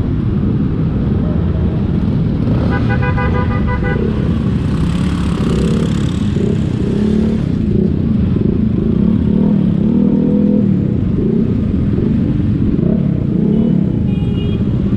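Motorcycle engines running through a group ride, their pitch rising and falling. A vehicle horn honks for over a second about two and a half seconds in, and a short horn toot sounds near the end.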